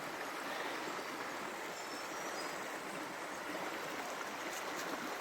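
Rainforest river flowing, a steady, even wash of running water.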